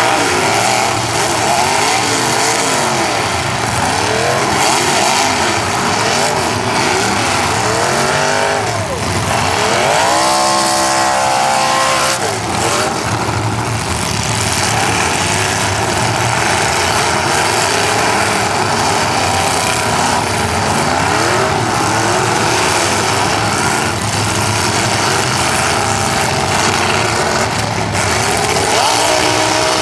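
Several demolition derby car engines revving up and down at once. About ten seconds in, one engine revs up hard and holds high for around two seconds before dropping.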